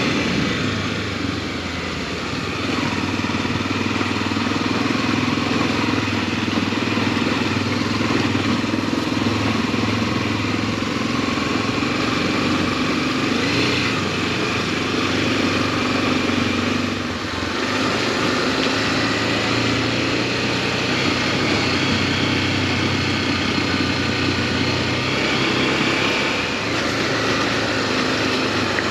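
Honda XRE300's single-cylinder engine running steadily under way, easing off briefly three times.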